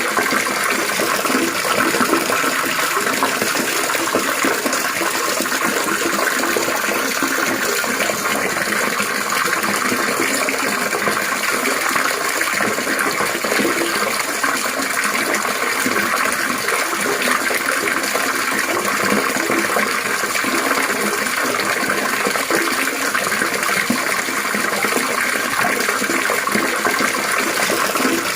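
Trickling, splashing water running steadily without a break.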